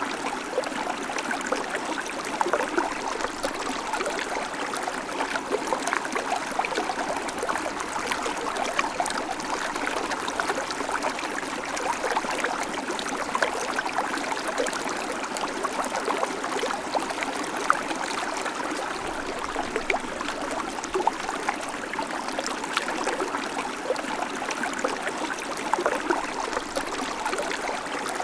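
Babbling creek: shallow water running steadily over stones, a continuous even rush full of small trickles and splashes.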